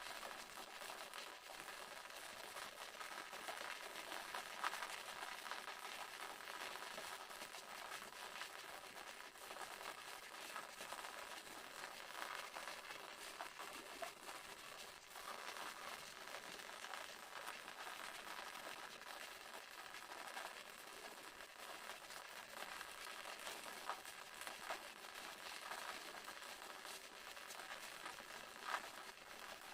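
Waterfall running steadily: an even rush of falling and splashing water, with a few sharper splashes standing out now and then.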